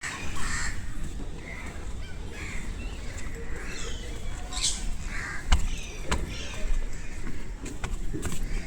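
Crows cawing among other bird calls, over a steady low rumble, with a couple of sharp knocks about halfway through.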